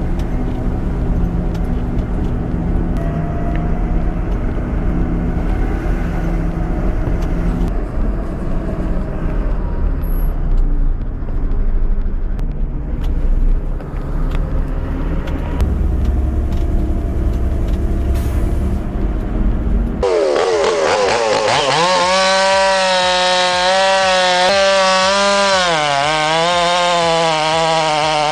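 Heavy 6x6 logging truck's engine running, a low rumble. About twenty seconds in it gives way to a chainsaw at full throttle cutting through big oak, its pitch sagging and recovering as it bites into the wood.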